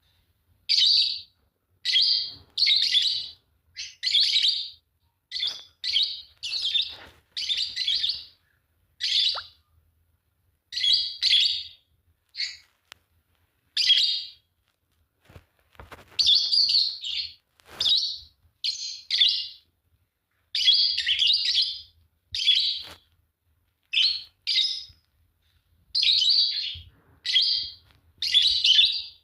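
Pair of Fischer's lovebirds chirping: a run of shrill, rasping chirps, one after another, with short pauses between clusters.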